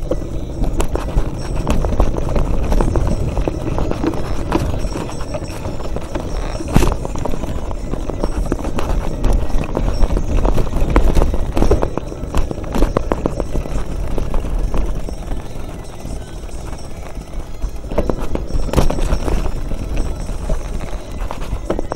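Mountain bike clattering and rattling as it is ridden over a rough trail: a dense run of sharp knocks over a steady low rumble.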